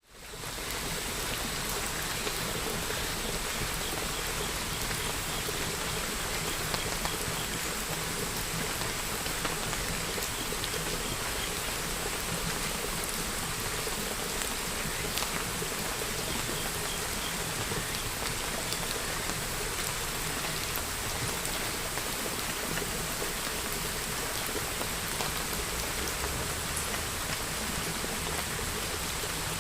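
Steady rain falling, an even hiss with faint scattered drop ticks, fading in from silence over the first half second.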